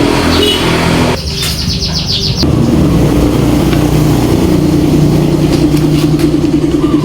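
Honda Supra 125 motorcycle's single-cylinder four-stroke engine being started after assembly: a noisy first second, a high buzz lasting about a second, then from about two and a half seconds in the engine runs at a steady idle.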